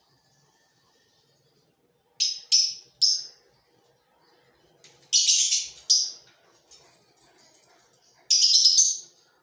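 Lovebirds giving shrill, harsh calls in bursts: three quick calls about two seconds in, a longer run of calls in the middle, and another long call near the end.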